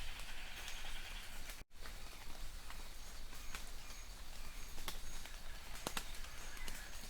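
Light rain falling in a forest: a steady hiss with scattered sharp drips tapping close by. The sound cuts out completely for a split second about one and a half seconds in.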